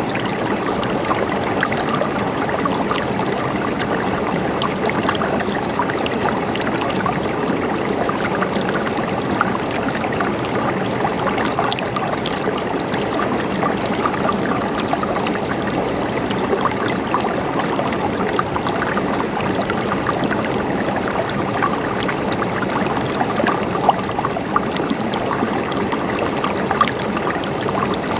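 A small stream or brook flowing steadily over stones, with a constant babbling and trickling of water.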